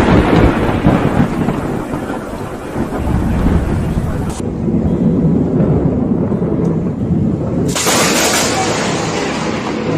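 Loud thunder from a close lightning strike, rumbling and slowly fading, with rain. About four seconds in the hissing cuts off abruptly, and near the end a loud rushing hiss starts suddenly.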